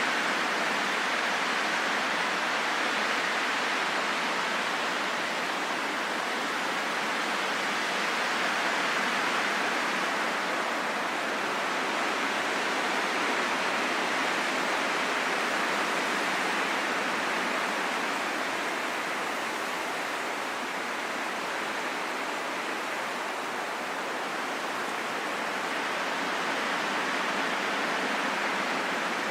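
Wind blowing as a steady rushing hiss with no howling tone, slowly swelling and easing over many seconds.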